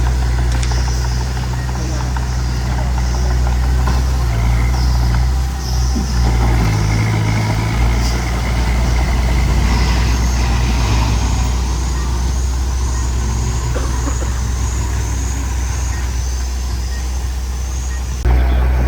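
Diesel engine of heavy earthmoving machinery running steadily under work, with scattered faint knocks and clanks. The sound changes abruptly near the end.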